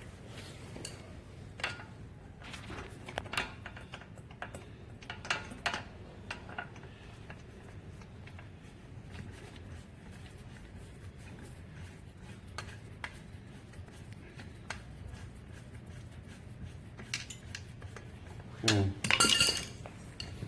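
Wrench and bolts clicking and clinking on the metal body of a hydraulic log splitter as its motor-mounting bolts are undone, with scattered light clicks over a faint low hum. A louder clatter comes near the end.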